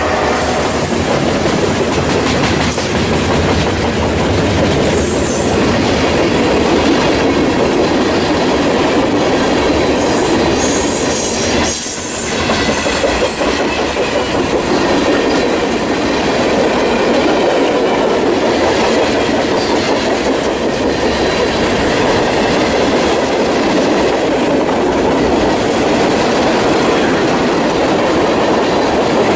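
Freight train cars rolling past in a steady rumble, with wheels clattering over rail joints and brief high squeals from the wheels now and then.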